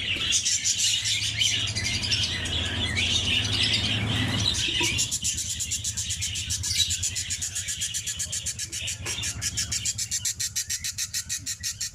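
Many caged pet birds, budgerigars among them, chattering and chirping densely. From about five seconds in, a fast, even run of clicks takes over, over a steady low hum.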